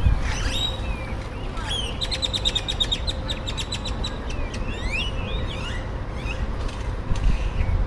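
Several birds chirping and calling, with quick rising and falling chirps and, about two seconds in, a fast run of sharp notes lasting about two seconds, over a steady low rumble.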